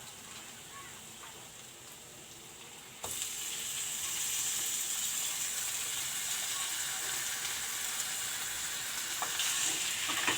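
Masala frying in hot oil in a kadhai: a soft sizzle that turns suddenly, with a click, into a loud, steady sizzle about three seconds in, as the chicken pieces go into the hot pan.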